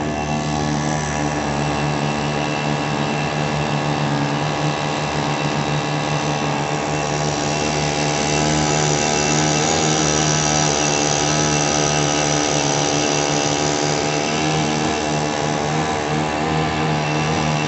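Small jet motor on a kayak running steadily, with a high whine that grows stronger in the middle.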